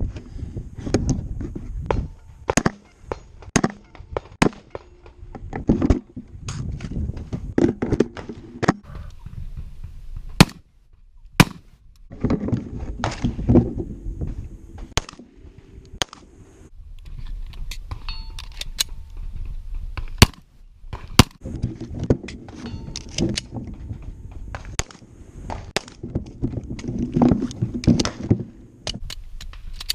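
Firearm and gear handling: a busy run of clicks, knocks and clatter from magazines and weapon parts, with two pairs of much louder sharp cracks about a second apart, the first pair about ten seconds in and the second about twenty seconds in.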